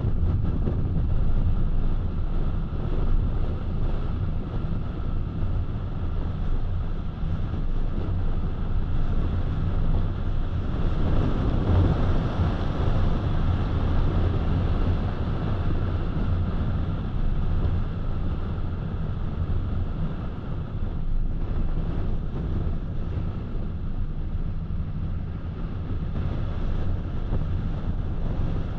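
Road noise of a car being driven: a steady low hum of engine and tyres with wind noise over it, swelling a little around the middle.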